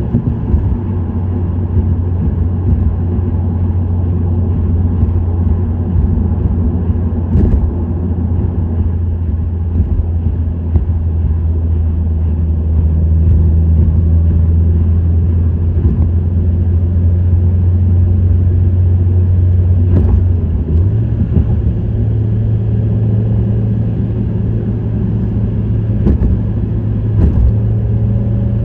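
Subaru WRX STI's turbocharged 2.0-litre flat-four engine and STI Performance exhaust, running with a steady low drone while cruising. The note steps up in pitch about two-thirds of the way through.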